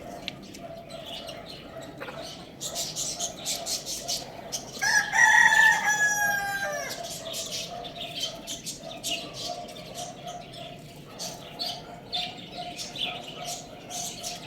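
A rooster crows once about five seconds in, a call of about two seconds that drops in pitch at its end. Small birds chirp in short, high calls throughout.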